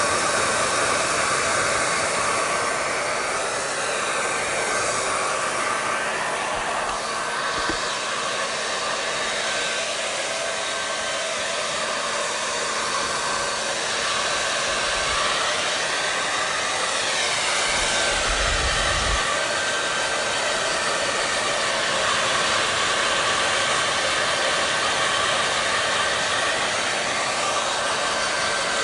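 Hair dryer running steadily: a constant rush of blown air with a faint steady hum from the motor. The tone of the airflow shifts slightly around the middle, and there is a brief low rumble about two-thirds through.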